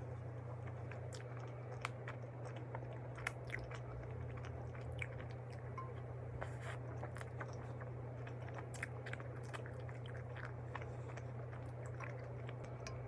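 A person chewing and biting into soft cream-filled bread close to the microphone, with scattered short mouth clicks and smacks over a steady low hum.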